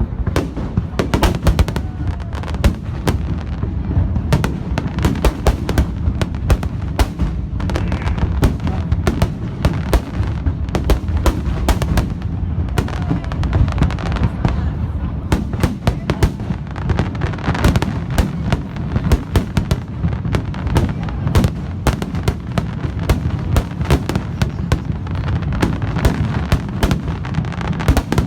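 Fireworks display going off without pause: rapid, overlapping bangs and crackles over a constant low rumble.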